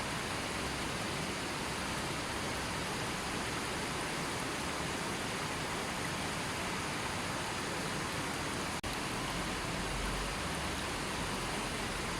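Gentle river flowing steadily, an even rush of water with no birds or other sounds, dropping out for an instant about nine seconds in.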